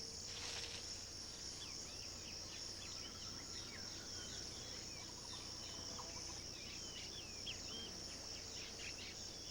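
Wetland ambience: a steady high-pitched insect drone, with many quick, short chirping calls scattered over it.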